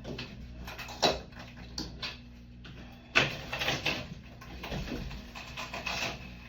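Shower door frame being pulled and pried free from its silicone, with scraping and rattling, a sharp knock about a second in and a louder clack a little after three seconds.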